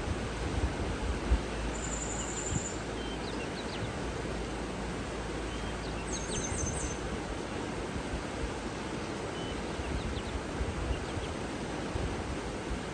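Steady rushing water with occasional short, high bird calls: a brief trill about two seconds in and a quick run of chirps around six seconds, with faint calls scattered throughout.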